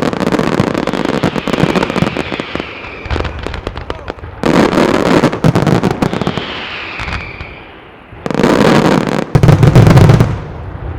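Fireworks display finale: dense rapid bangs and crackling for the first few seconds, then several heavy salvos of shell bursts, the loudest and deepest about nine to ten seconds in.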